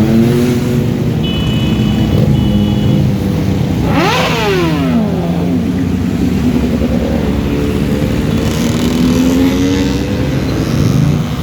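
Motorcycle engines running in a slow-moving procession, with one bike revved sharply up and back down about four seconds in.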